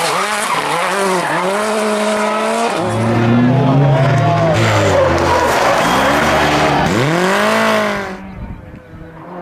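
Rally car engine revving hard through the gears, its pitch climbing and dropping again and again as it accelerates and shifts. The sound falls away sharply about eight seconds in.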